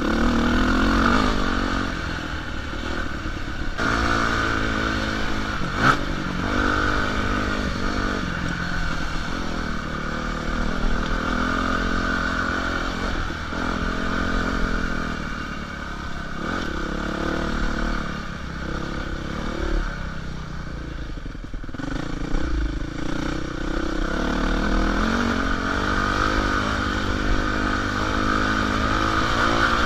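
Dirt bike engine on a trail ride, its pitch rising and falling over and over as the throttle is worked, with clattering from the bike over rough ground. There is a sharp knock about six seconds in.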